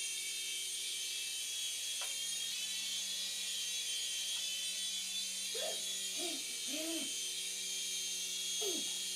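Toy remote-control helicopter hovering, its small electric motor and rotor giving a steady high-pitched whir with a low hum under it.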